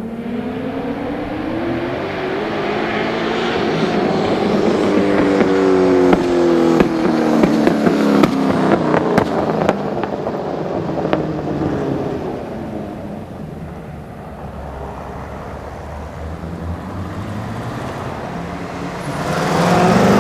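5.3 L LS V8 in a BMW E36, running through homemade headers and exhaust. Its revs climb for about six seconds, with sharp crackles at the loudest point, then fall away slowly and start climbing again near the end.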